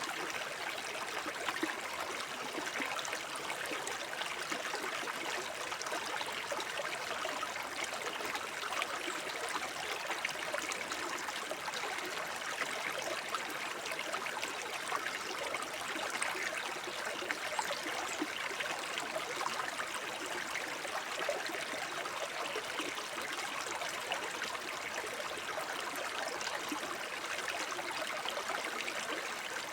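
Forest brook babbling and trickling over stones, a steady burble of small splashes and gurgles with no pauses.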